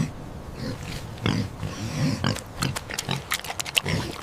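A pig grunting and snuffling, a series of short grunts at uneven intervals.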